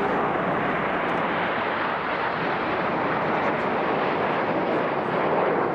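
BAE Hawk T1 jets flying in formation: steady jet engine noise that holds an even loudness throughout.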